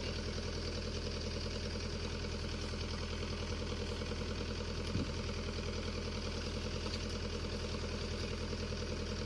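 Mini excavator's diesel engine idling steadily, with one short knock about five seconds in.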